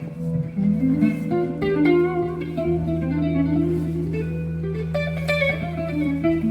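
Electric guitar through an amplifier playing a melodic line of moving notes over a held low note.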